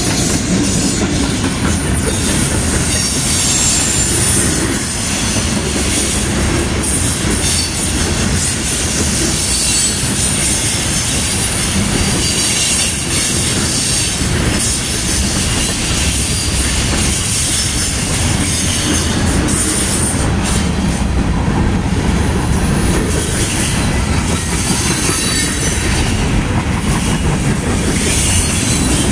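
Norfolk Southern freight train's cars rolling past close by: a steady loud rumble and clatter of steel wheels on rail, with a thin high wheel squeal that comes and goes.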